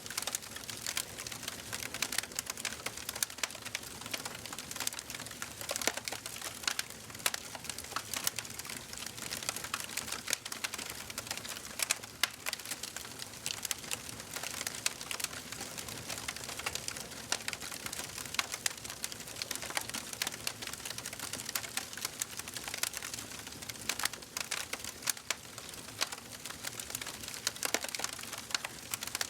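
Wood fire burning in a fireplace: a steady hiss under dense, irregular crackles and pops.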